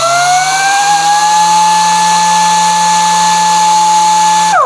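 Air-powered random orbital sander running: a steady high whine over hissing exhaust air, rising to speed just as it starts. Near the end the whine falls in pitch as it winds down.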